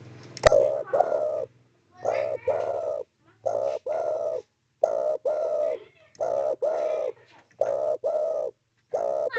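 Spotted dove (derkuku, tekukur) cooing: a steady run of low coo notes, mostly in pairs, with short pauses between them. This is the calling song it uses to call to other doves and challenge rivals. A sharp click sounds about half a second in.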